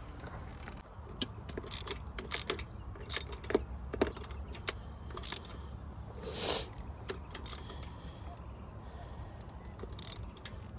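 Irregular sharp metallic clicks and clinks of a socket wrench on an extension being worked on the rear spark plugs of a 5.7 V8, with a brief scrape about six seconds in, over a low steady hum.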